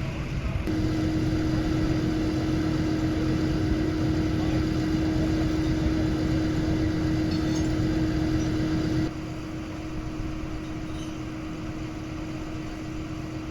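A vehicle engine running steadily with a loud steady hum over a low rumble; about nine seconds in the level drops suddenly and the hum fades.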